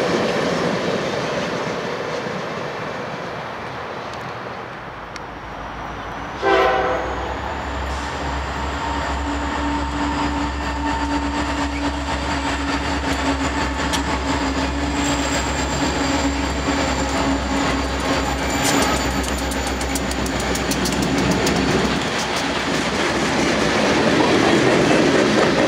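Freight train rolling over the rails, with wheel noise fading as the last cars pass. About six and a half seconds in comes a short, sudden blast of a diesel locomotive horn, followed by a low diesel engine rumble, and near the end the rolling noise of passing freight cars builds again.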